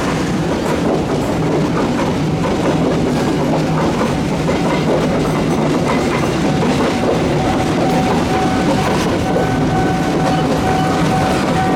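A train running past at close range, its wheels clattering steadily over the rails. About halfway through, a steady high tone joins in.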